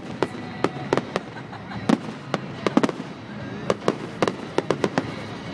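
Fireworks going off: a string of sharp bangs and cracks at irregular intervals, some in quick clusters of two or three, about three a second at most.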